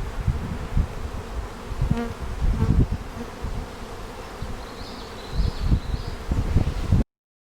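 Honeybee swarm buzzing around a hive, with a bee humming close past the microphone about two seconds in, over low buffeting on the microphone. The sound cuts off suddenly near the end.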